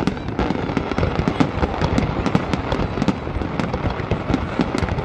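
Fireworks display: a dense, unbroken run of bangs and crackling pops, many each second, over a low rumble.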